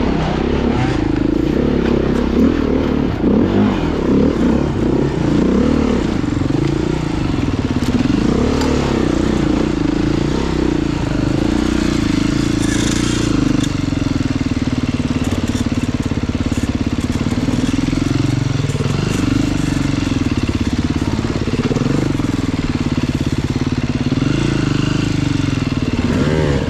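Off-road dirt bike engine running under a rider on a trail, its pitch rising and falling with the throttle, steadier for a stretch in the middle.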